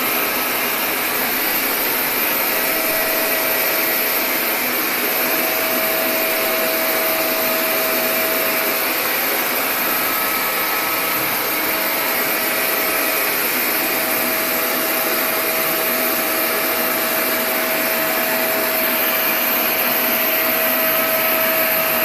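Vacuum cleaner running steadily: a constant hiss with a faint steady tone in it.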